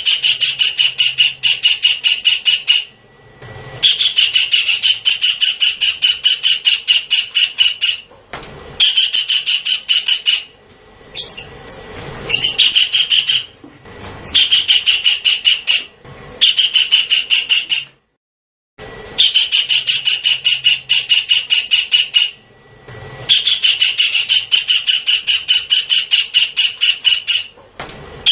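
Javan kingfisher giving loud, rapid chattering calls in repeated phrases of a few seconds each, with short pauses between them. It is a looped lure recording.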